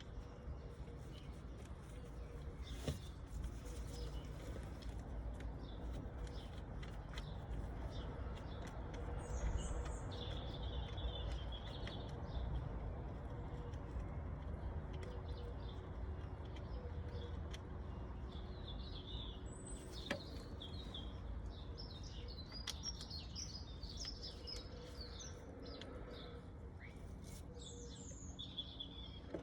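Birds chirping in short bursts of high calls over a steady low rumble.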